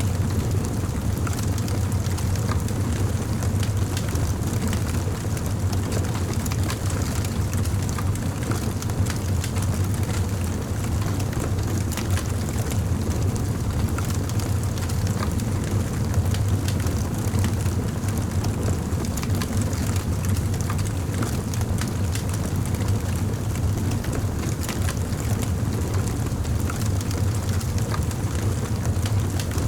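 Campfire burning, with frequent small crackles and pops over a steady low rumble.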